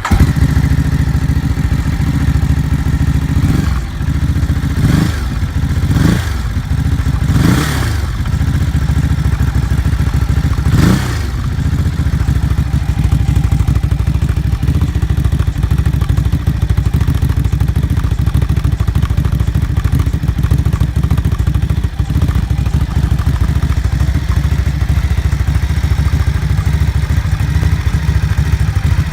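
Ducati Hypermotard 939's L-twin engine running through an Akrapovic titanium exhaust: idling, with about five quick throttle blips between four and eleven seconds in, then a steady idle for the rest.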